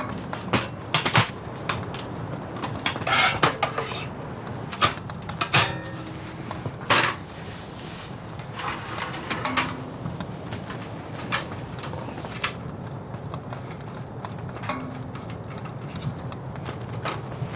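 Scattered light knocks, clicks and clatters of camping gear and cookware being handled, over a steady low hiss.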